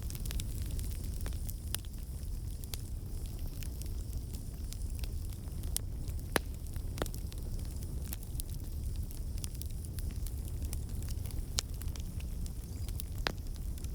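Campfire burning with a steady low rumble and scattered, irregular crackles and pops from the burning wood.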